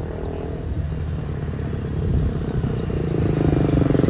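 A motor vehicle engine running with a steady, pulsing hum that grows louder near the end.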